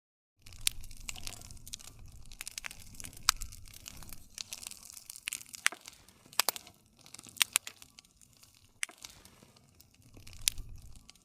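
Wood fire crackling, with irregular sharp pops and snaps over a low rumble of the flames. The sound starts a moment in after a brief dead silence and cuts off abruptly at the very end.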